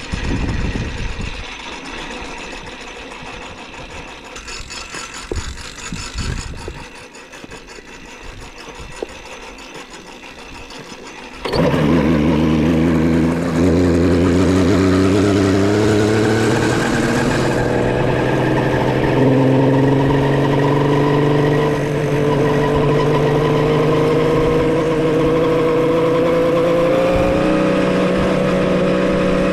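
Homemade three-cylinder two-stroke motorcycle engine, quiet at first, then loud from about a third of the way in, its pitch climbing slowly and steadily as the bike gathers speed. It is being run in on its first rides.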